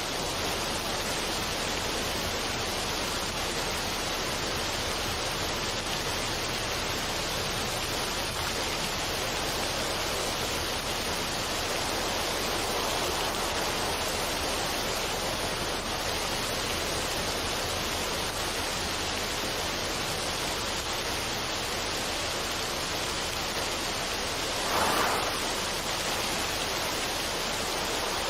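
Steady, even rushing noise like falling or running water, with no tune or rhythm. A brief louder swell comes near the end.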